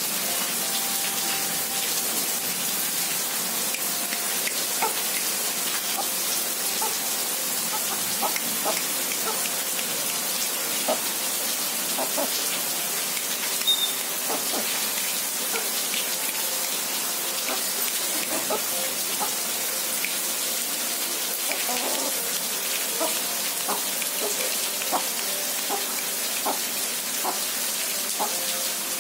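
Steady rain falling, a continuous even hiss, with scattered small ticks.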